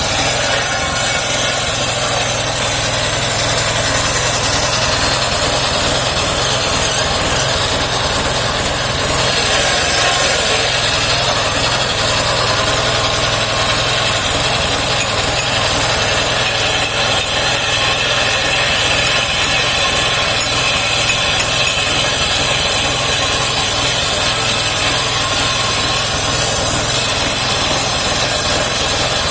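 Engine-driven homemade circular sawmill running steadily, its blade cutting through saman (rain tree) wood.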